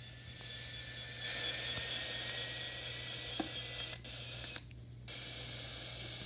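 WR400 radio tuned to 87.5 FM giving off hiss with squeaking noises, a thin steady whistle and a low hum, with a few clicks. The higher sound cuts out briefly about four and a half seconds in.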